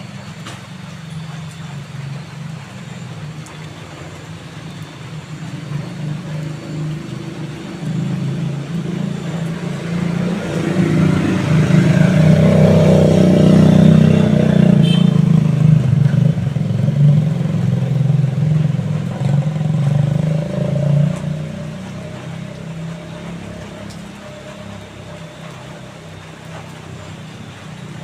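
A motor vehicle passing: a low engine rumble swells to its loudest about halfway through and then fades again, over a steady low drone.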